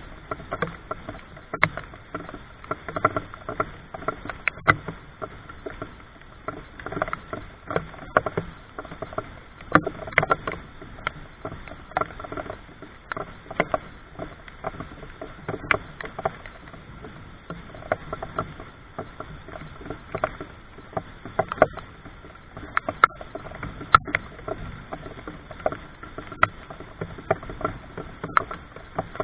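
Rain dripping: irregular sharp drops tapping, a few a second, over a steady hiss.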